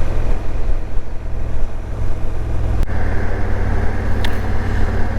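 Motorcycle engine running steadily at cruising speed, with wind rumbling on the microphone as the bike rides along.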